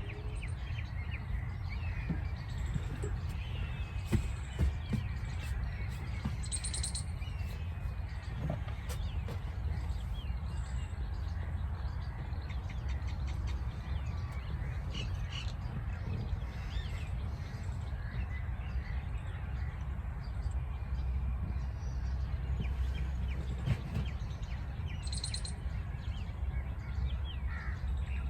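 Several birds chirping and calling on and off over a steady low rumble of outdoor background noise.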